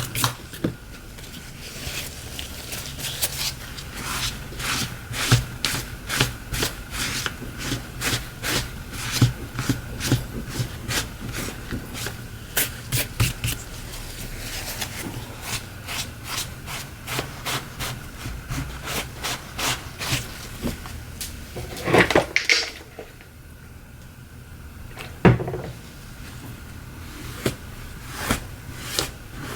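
Quick light clicks and scrapes of hand tools working on a smartphone. Under them runs a steady low hum that stops about two-thirds of the way through.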